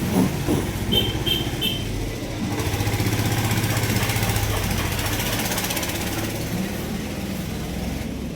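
A small two-stroke chainsaw engine running steadily with a rapid, even firing rhythm, a little louder a few seconds in.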